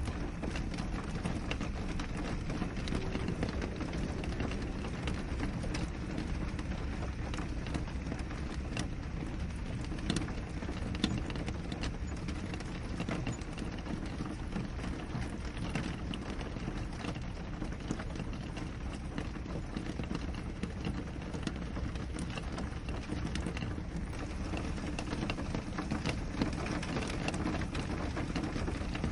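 Steady rain falling and pattering on a window, with scattered faint drop ticks over a low, even rush.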